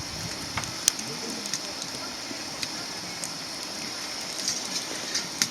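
Wood fire crackling in a small camp fire stove: a steady hiss with scattered sharp pops, the loudest a little under a second in and just before the end. Faint distant voices underneath.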